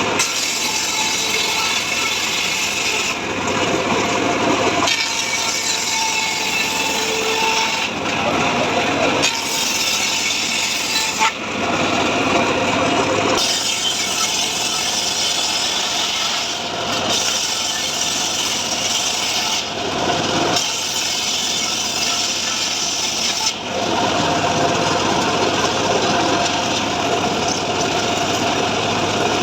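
Homemade sawmill blade cutting through a mahogany log: a steady, loud rasping saw noise whose tone shifts every few seconds as the cut goes on.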